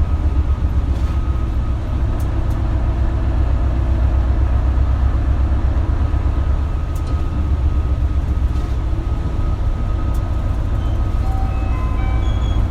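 Isuzu Erga KL-LV280L1 diesel route bus under way, heard from inside: a steady low engine and road rumble with a faint constant whine.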